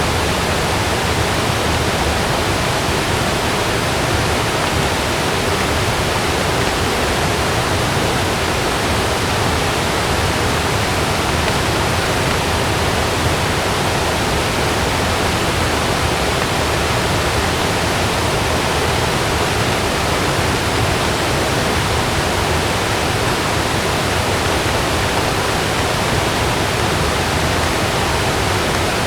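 Heavy rain falling on a camping tent: a steady, unbroken hiss with no thunderclap in these seconds.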